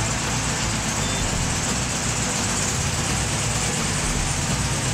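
Volkswagen Karmann Ghia's air-cooled flat-four engine running steadily, a low rumble under a dense noise.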